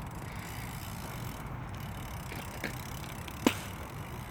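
A bike rolling over the skatepark surface with a steady low rumble, then a light click and a single sharp clack about three and a half seconds in as the bike strikes or lands on the ramp.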